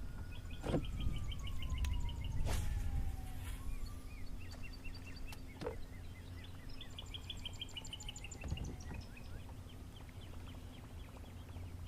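Songbirds singing: two long, fast trills of evenly repeated chirps, one about the first three seconds and another from about seven seconds in, each with a slower falling whistle beneath it. A low rumble of wind on the microphone runs under the birds.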